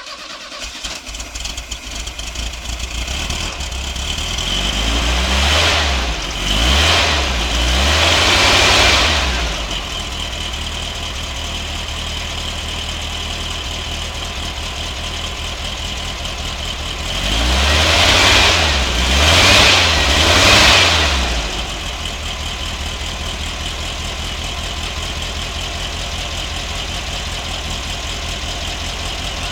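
1974 VW Beetle air-cooled flat-four engine idling steadily. It is revved three times in quick succession twice, about a third of the way in and again past halfway, settling back to idle after each set.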